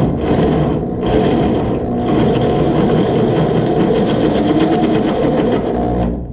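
Electric drill running under load, boring out bolt holes in a steel truck frame to 1/2 inch; a steady, loud motor-and-cutting sound that cuts off suddenly at the end.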